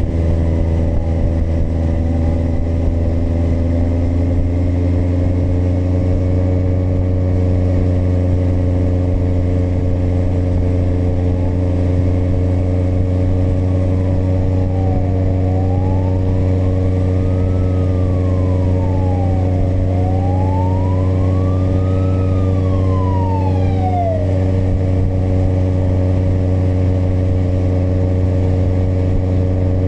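Kawasaki motorcycle engine pulling up through the first few seconds, then cruising at a steady speed. Partway through, a wailing siren rises and falls several times, then drops away sharply.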